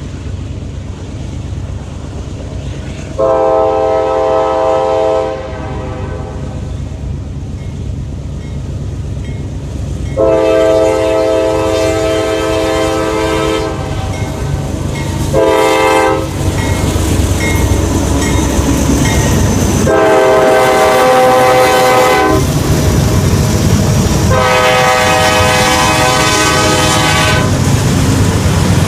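Norfolk Southern diesel locomotive leading a grain train, sounding its multi-chime air horn in the grade-crossing pattern: two long blasts, a short one, then long blasts. The engine and wheels on the rails rumble underneath and grow louder about two-thirds of the way through as the train draws closer.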